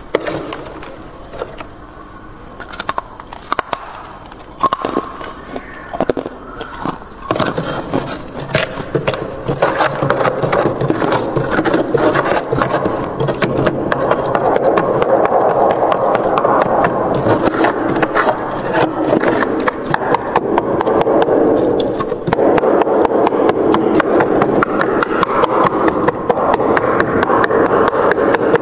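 Freezer frost being scraped: a few scattered scrapes and taps at first, then from about seven seconds in, continuous rapid scraping.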